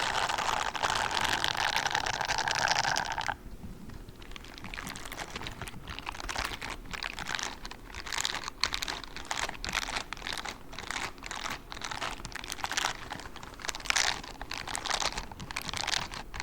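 Spiky rubber ASMR gloves scratching and rubbing. A dense, continuous scratching for about three seconds stops abruptly, then gives way to lighter, irregular taps and scratches.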